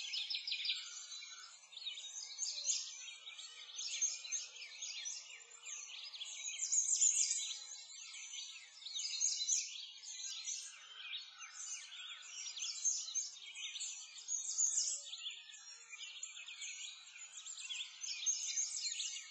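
A dense chorus of songbirds: many overlapping quick chirps and trills that keep going without a break.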